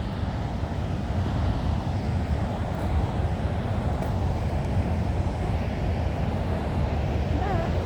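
Steady rushing roar of a large waterfall, Ohiopyle Falls on the Youghiogheny River, heavy in the low end.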